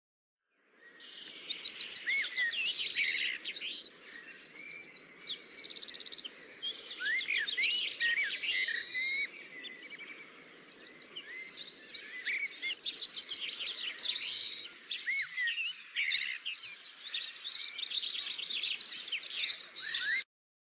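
Chorus of several songbirds singing at once, with fast trills and chirps overlapping over a low rushing background. It fades in and cuts off suddenly near the end.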